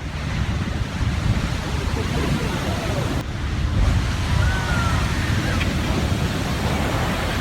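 Water surging and rushing, with wind buffeting the microphone; the noise shifts slightly about three seconds in.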